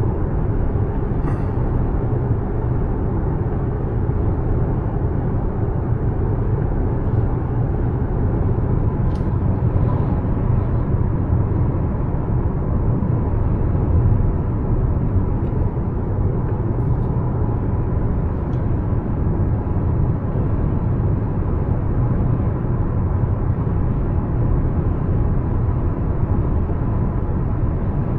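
Steady drive noise heard inside the cabin of a Mazda CX-5 with the naturally aspirated 2.5 e-SKYACTIV G engine: a low, even road and tyre noise with engine hum, holding level throughout, with a few faint small ticks.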